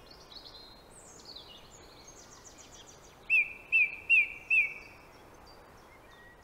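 Woodland birds singing, with high, quick song phrases throughout and, about halfway through, four loud repeated notes in quick succession.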